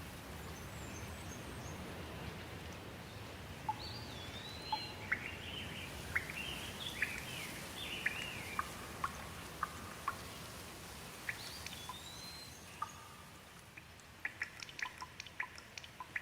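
Steady rain falling, with a bird singing over it in a run of short chirps and whistled glides. Near the end the rain thins and a quick patter of separate drops takes over.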